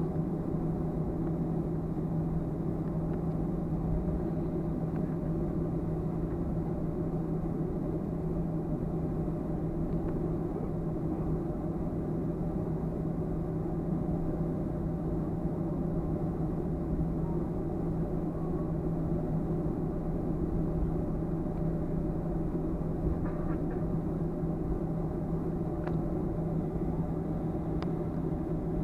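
Steady cabin drone inside a Boeing 737-300, a constant hum that neither rises nor falls, with a few faint clicks near the end.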